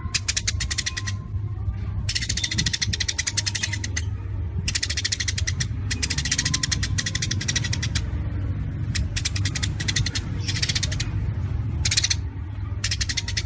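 Songbird 'tembakan' masteran recording: a bird's rapid-fire song of very fast, clipped notes, delivered in repeated bursts of about half a second to two seconds with short pauses between, over a steady low hum.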